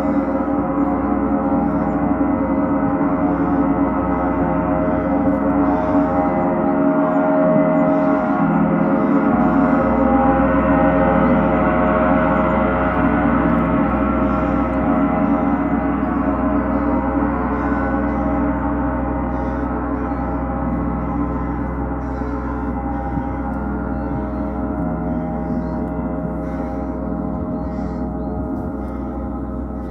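Gong played continuously in a gong bath: a dense, sustained wash of many overlapping ringing tones. It swells gently over the first ten seconds or so, then slowly fades.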